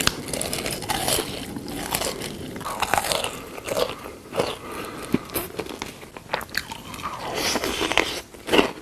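Close-miked crunchy biting and chewing of food, in irregular crisp crackles.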